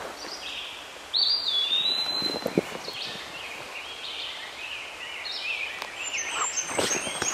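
Birds calling: a long whistled note that rises then falls slightly about a second in, then repeated short chirps that come thicker near the end. A few soft knocks are heard under the calls.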